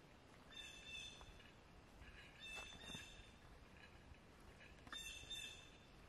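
Faint bird calls in quiet woodland: three short bouts of calls, a couple of seconds apart.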